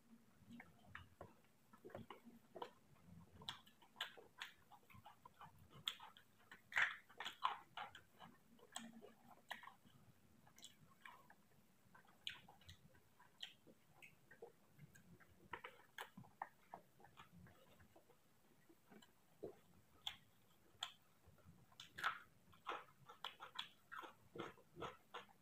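Close-miked eating sounds: irregular soft clicks and wet smacks of chewing on rice and fried vegetables, with fingers mixing rice on a plate. The sounds come in busier clusters around seven seconds in and again near the end.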